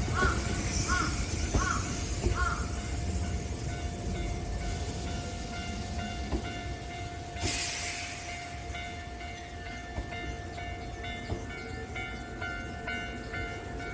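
Hankyu 5300 series electric train rumbling slowly over a level crossing as it comes to a halt, with a short loud hiss of air about seven and a half seconds in. The crossing alarm rings on in quick repeated tones, and crows caw a few times at the start.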